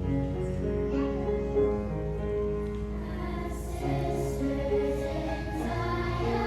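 A choir singing with instrumental accompaniment, notes held steadily.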